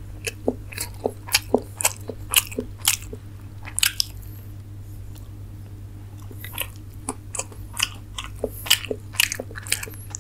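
A person chewing and eating chicken momos: a run of short, sharp mouth clicks and smacks, easing off for a couple of seconds in the middle before picking up again.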